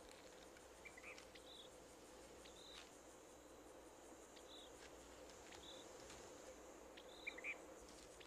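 Faint insect ambience: a steady high trill with short high chirps repeating about once a second. A brief louder chirping comes twice, about a second in and near the end.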